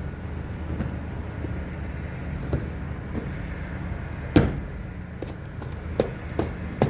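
An engine runs steadily with a low hum. Over it come sharp knocks and clanks: one loud one about four and a half seconds in and several quick ones near the end, as of freight or equipment being worked by hand.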